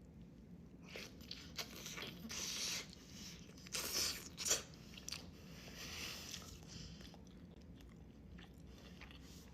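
Close-miked eating: biting into and chewing imitation crab, with irregular wet mouth clicks and smacks, loudest about four seconds in.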